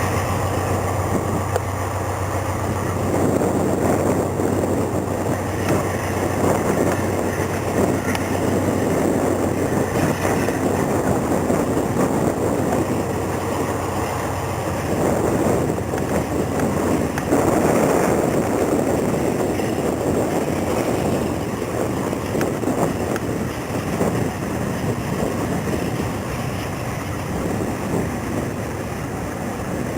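Freight train cars rolling past on the rails in a continuous rumble and rattle, swelling and easing as they go by. A diesel locomotive's low idling hum is heard during the first few seconds.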